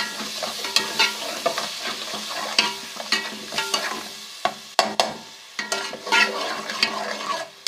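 Spice masala with yogurt frying in ghee in a pot, sizzling while a spoon stirs and scrapes it, with irregular knocks against the pan. This is the bhuna stage, the masala stirred so it doesn't burn.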